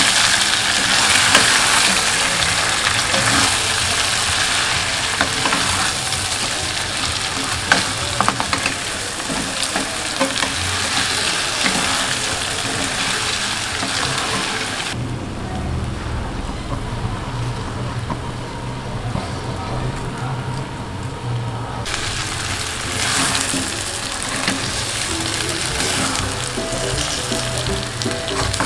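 Spice-coated duck pieces sizzling in hot oil in a nonstick pan while being stirred with a silicone spatula, with a few scrapes and taps of the spatula. The sizzle's hiss drops away for several seconds midway, then comes back.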